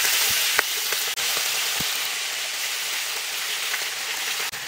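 Chicken pieces frying in hot oil in a pan: a steady sizzle with a few scattered pops.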